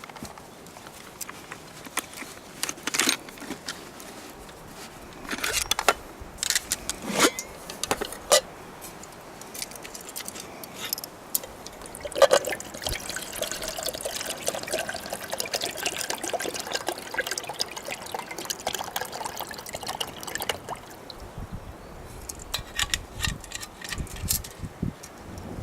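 Water being poured into a cooking pot or vessel for several seconds, from about halfway through, after a run of knocks and clinks from handling camp cookware.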